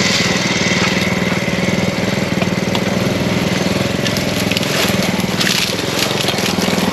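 Small single-cylinder mini bike engine running steadily at low throttle, with crunching and crackling noise over it that grows busier about four seconds in.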